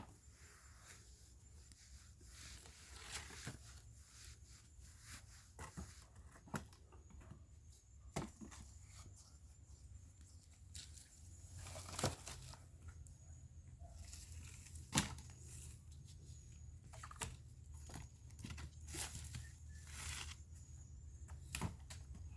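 Dry sticks and brush crackling and snapping in irregular, scattered cracks, the sharpest about twelve and fifteen seconds in.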